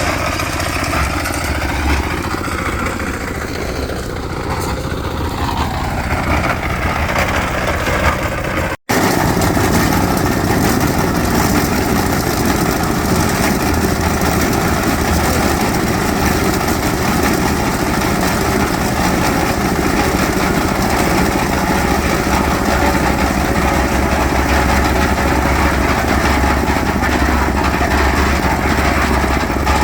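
Small engine on construction equipment running steadily, with a steady low hum. About nine seconds in the sound drops out for an instant, then carries on slightly louder.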